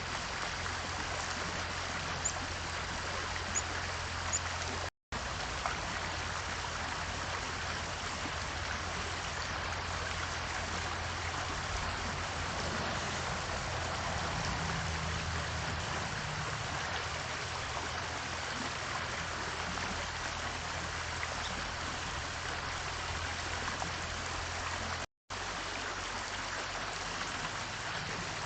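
Steady rushing hiss of running water, with a low hum underneath and a few faint high ticks in the first few seconds. The sound cuts out completely for a moment twice.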